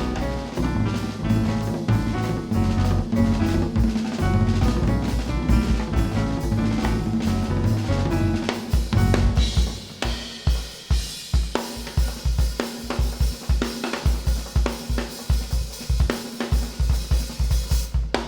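Jazz quartet playing live, with the drum kit prominent. About halfway through the rest of the band thins out and the drums carry on with rapid, evenly spaced strikes over a held low note.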